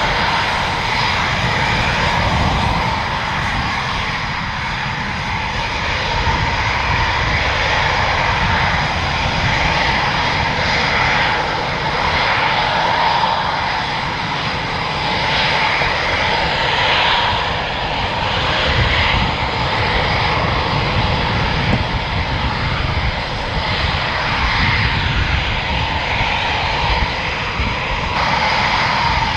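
Military fighter jet engines running steadily: a continuous rushing noise with a held whine, swelling and easing a little.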